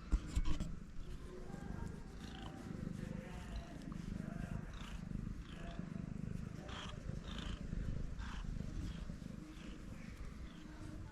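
A cat purring, a continuous low pulsing rumble, with faint short high-pitched sounds over it and two knocks just at the start.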